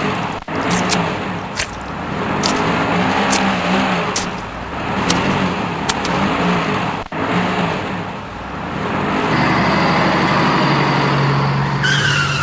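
Vehicle engine running and revving, its pitch rising and falling, with scattered sharp clicks. About nine seconds in it changes abruptly to a steadier engine note, and a falling squeal sounds near the end.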